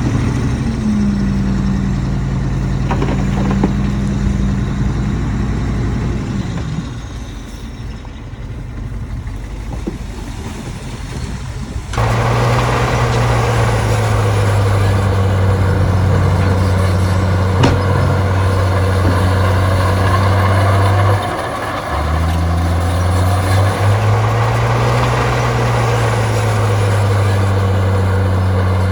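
Heavy diesel engine of earthmoving machinery running; its pitch sags and it quietens about six seconds in. After an abrupt cut about twelve seconds in, a louder diesel engine runs steadily, its pitch dipping and rising a couple of times.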